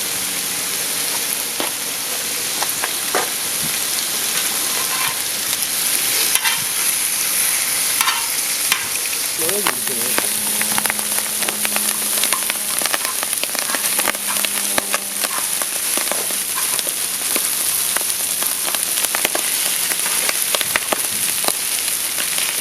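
Pork belly and kimchi sizzling in fat on a cauldron-lid griddle (sot-ttukkeong), with many small clicks and scrapes of a utensil stirring the food.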